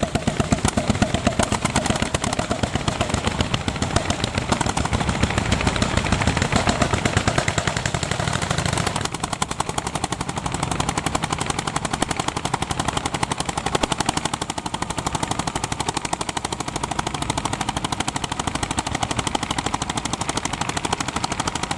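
Single-cylinder two-stroke hot-bulb (testacalda) tractor engines firing in a rapid, even, popping beat while ploughing. The sound shifts and drops a little in level about nine seconds in.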